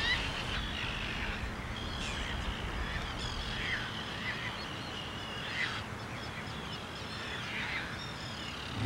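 A flock of birds calling over and over, high chattering calls with a few sharp downward squeals, over a steady background hiss. A single knock near the very end.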